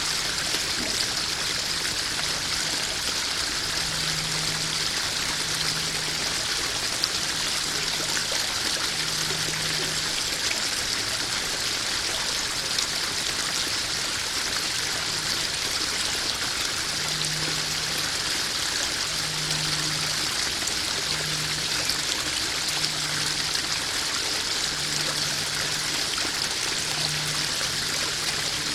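Koi pond waterfall: water spilling and trickling steadily into the pond, an even, unbroken rush.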